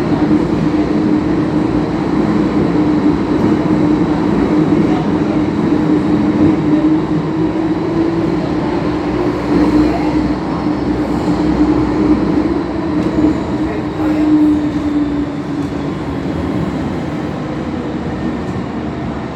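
MTR M-Train metro train running through a tunnel: a steady rumble of wheels and running gear with a held hum. It gets a little quieter in the last few seconds.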